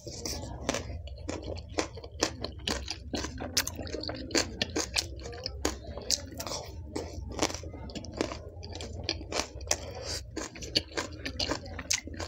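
Close-miked crunching and wet chewing of crisp pani puri shells filled with green pani and whole green chilies, with sharp, irregular crunches several times a second.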